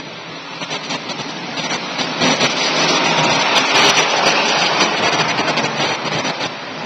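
A vehicle passing close by: a loud rush of noise that builds to a peak about halfway through and then fades.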